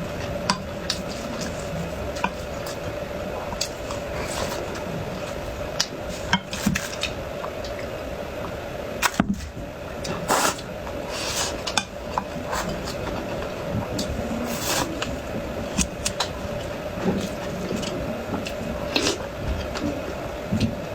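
Eating sounds: utensils clicking and tapping against a dish, with chewing and mouth noises, over a steady hum.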